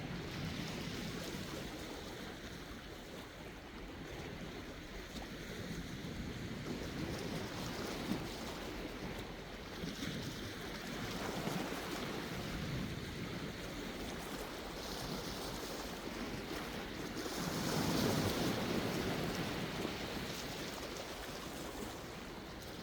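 Sea waves washing in and receding, a steady rushing that rises and falls, with a bigger wave about three-quarters of the way through.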